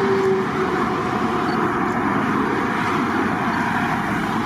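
Trucks driving past in a steady stream: continuous engine and tyre noise with no breaks.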